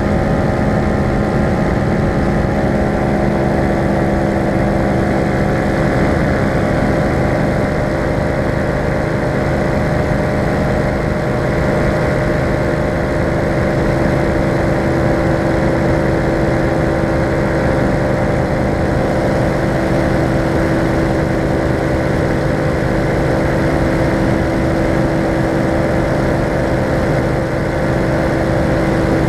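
Falcon four-stroke paramotor engine and propeller running steadily in flight: a constant, even drone with no change in throttle.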